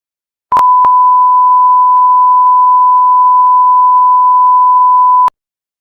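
A loud, steady electronic beep tone at one pitch near 1 kHz, held for nearly five seconds, starting and stopping with a click.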